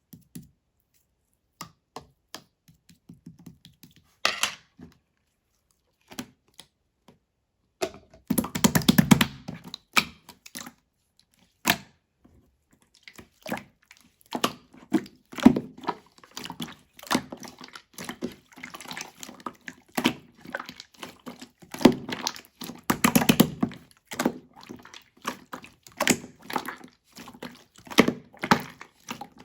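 Small stones and gravel knocking and clattering in a string of sharp clicks. Sparse at first, with denser rattling spells about eight seconds in and again in the second half.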